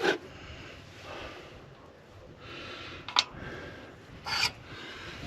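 Handling noises: short rubbing and scraping sounds, a sharp click about three seconds in and a brief rasp a second later.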